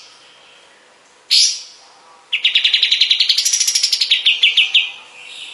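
Kapas tembak (white-shouldered triller) song: a single sharp call about a second in, then a rapid high trill of about two and a half seconds that rises and then falls in pitch.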